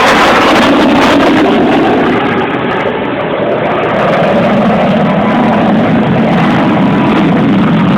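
Loud, steady jet aircraft engine noise that dips briefly about three seconds in.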